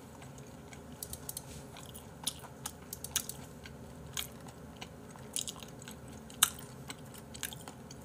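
Close-miked chewing of a mouthful of raw beef: irregular wet mouth clicks and smacks, the sharpest about six and a half seconds in.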